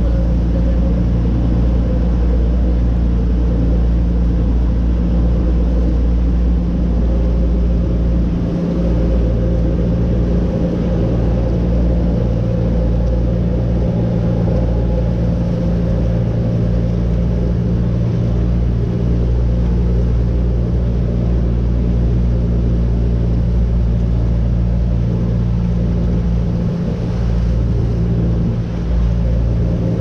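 Motorboat engine running steadily at a constant pitch, a loud even low drone.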